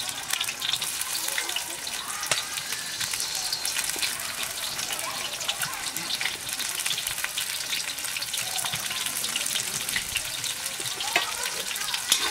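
Chopped onion and green chilies sizzling in hot oil in a wide metal wok, a steady hiss with many small crackles and pops.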